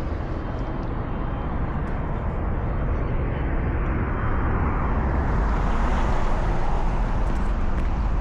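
Road traffic outdoors: a steady low rumble, with a passing vehicle that gets louder between about four and seven seconds in and then fades.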